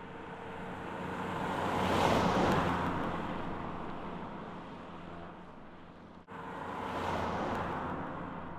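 Toyota Matrix driving past, its engine and tyre noise swelling to a peak about two seconds in and then fading away. After a sudden cut, a second, shorter pass swells and fades near the end.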